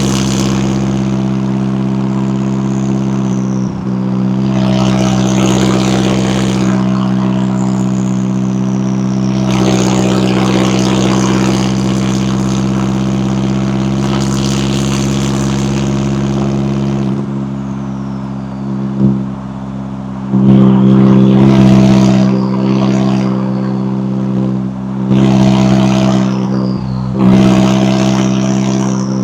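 McLaren 570S twin-turbo V8 running at a steady idle, with repeated short surges of noise over it that get louder about two-thirds of the way in, and faint falling high whistles.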